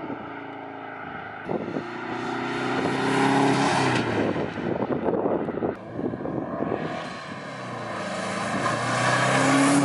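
Turbocharged flat-four of a 2002 Subaru WRX wagon with an aftermarket catback and downpipe exhaust, accelerating past with a rising engine note, then approaching and revving up again near the end. Wind buffets the microphone as the car goes by.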